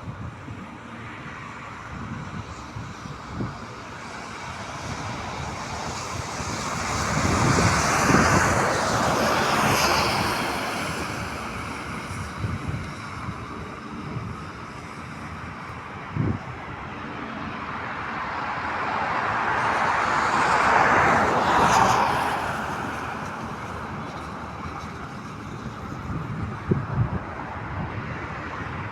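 Two vehicles pass by, one peaking about eight seconds in and another about twenty-one seconds in. Each swells and then fades over several seconds above a steady outdoor background.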